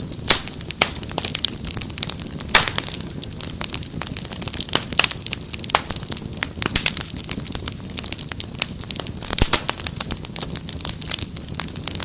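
Wood fire crackling, with irregular sharp pops and snaps, a few of them louder, over a steady low rumble of flames.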